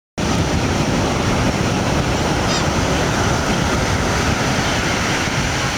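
A large flock of birds calling all at once: a dense, continuous mass of many overlapping calls, with a few higher chirps standing out about two and a half seconds in.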